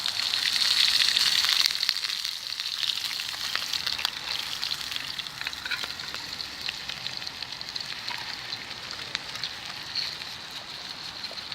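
Pheasant breast frying in coconut oil in a pan over a campfire: a steady sizzle with scattered pops and crackles, loudest for the first couple of seconds and then easing slightly.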